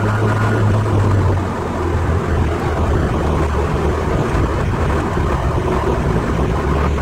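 Ferrari 308 GTSi's V8 engine heard from inside the cabin over road and wind noise, running steadily. About one and a half seconds in its pitch drops as the revs fall, and it carries on at a lower, less even drone.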